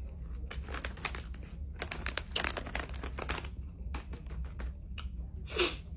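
Crunchy candy being chewed close to the microphone: clusters of quick crackling clicks.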